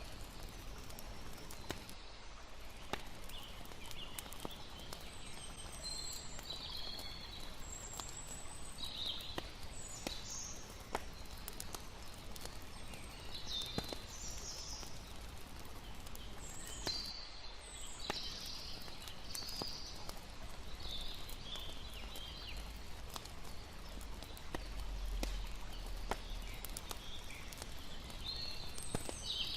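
Campfire crackling with scattered sharp pops over a steady wash of flowing river water, with short high chirping calls coming and going.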